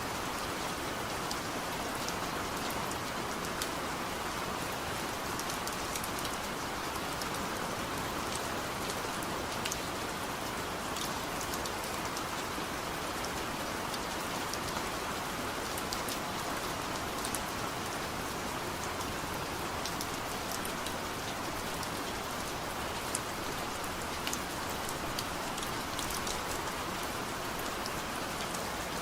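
Heavy rain falling steadily, a dense even hiss with sharp drop patters on a hard surface.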